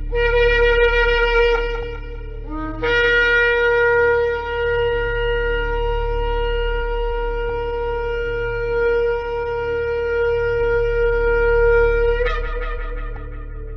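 A shofar (ram's horn) blown: a short blast, then one long steady blast of about nine seconds that breaks upward in pitch near the end and fades away. A faint low hum lies underneath.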